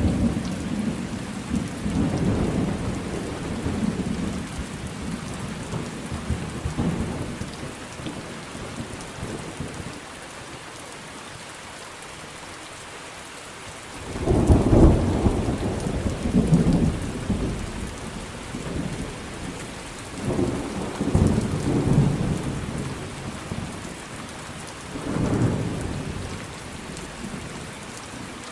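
Steady rain with rolling thunder: low rumbles fade away to a lull of rain alone about ten seconds in, then new peals roll in about fourteen seconds in and again twice near the end.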